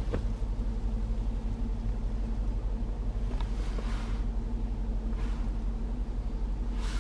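Supercharged 5.0-litre V8 of a Range Rover Sport SVR idling, a steady low rumble heard from inside the cabin.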